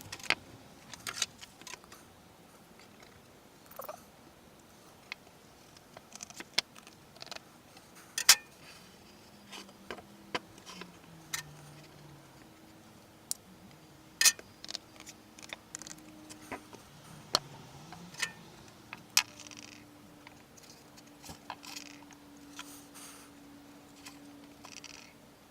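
Scattered sharp clicks and knocks of tools and wood pieces being handled and set down on a workbench, with a faint hum in the background.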